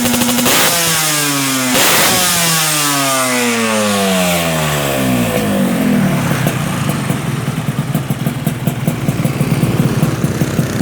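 Yamaha RX-King's two-stroke single-cylinder engine through an aftermarket racing exhaust, held at high revs, then the throttle shut and the revs falling away over about five seconds. It then settles into an uneven idle.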